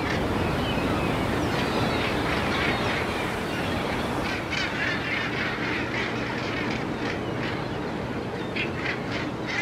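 Birds calling in short, repeated cries over a steady rumble and hiss.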